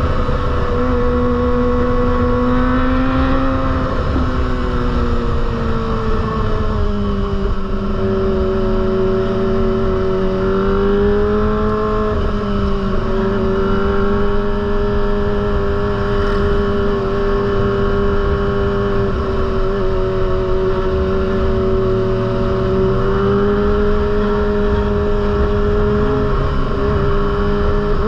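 Kawasaki ZX-25R's 250 cc inline-four running through a Proliner aftermarket exhaust, holding fairly steady revs that drift gently up and down, with a brief dip in pitch about twelve seconds in and again at the end.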